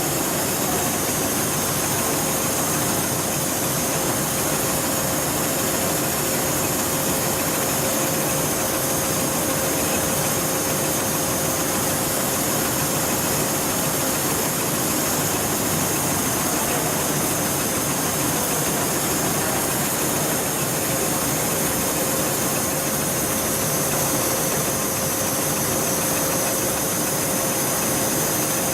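Industrial heavy-duty pattern sewing machine running: a steady mechanical hum with a constant mid-pitched whine and hiss, unchanging throughout.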